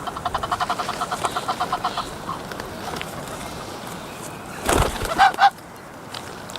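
Ducks and geese calling close by: a rapid run of short, quick calls for about two seconds, then a short loud burst of noise a little under five seconds in, followed by a few more calls.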